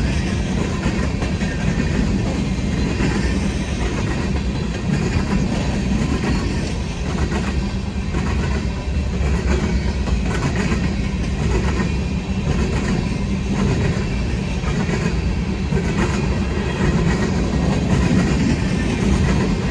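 Freight cars of a Union Pacific coal train rolling past at close range: a steady rumble of steel wheels on rail, with repeated clicks as the wheels cross rail joints.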